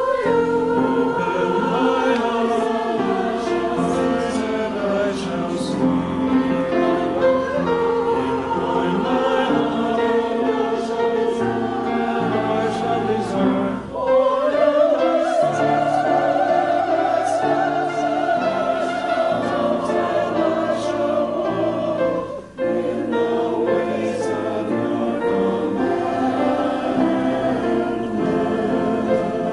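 A choir singing a hymn in long, sustained phrases, with brief pauses between phrases about halfway through and again near the end.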